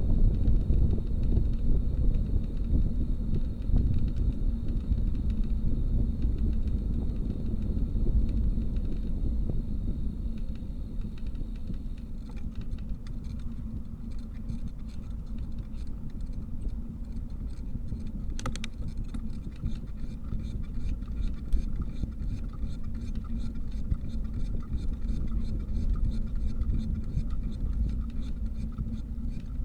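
Low rumble of wind on the microphone and rolling noise while riding a bicycle. From about halfway, a string of quick light ticks runs under it, with one sharper click.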